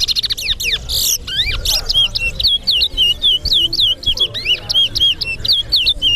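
Caged towa-towa (large-billed seed finch) singing a fast, unbroken song of high, looping whistled notes, several a second, in a counted singing bout.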